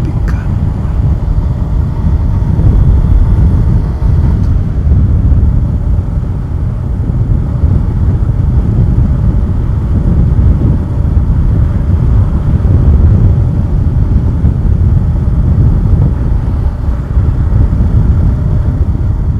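Loud wind buffeting on the camera microphone while riding the Suzuki Gixxer 150SF motorcycle, its engine running underneath.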